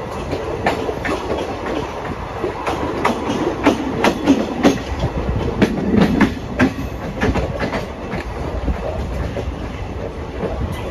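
Passenger train coach wheels running over the track at speed: a steady rumble with clickety-clack wheel clacks, which come thick and sharp for a few seconds in the middle.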